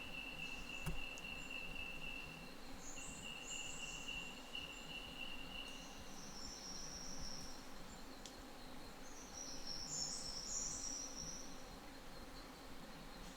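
Insects calling: a steady high-pitched whine that drops out briefly and then stops about halfway through, with bursts of higher, buzzy trills coming and going three times.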